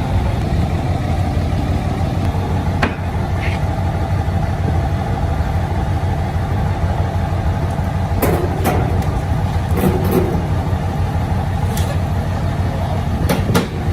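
Old construction truck driving, a steady low engine and road rumble, with several sharp knocks or rattles scattered through it.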